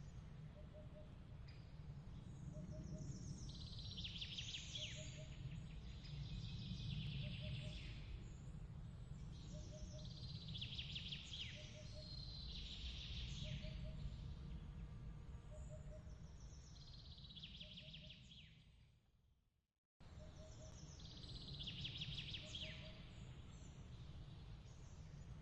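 Faint nighttime nature ambience: high trilled chirps in bursts every couple of seconds and a soft repeating double chirp, over a steady low rumble. About 19 seconds in, everything fades to silence and cuts back in a second later, where the track loops.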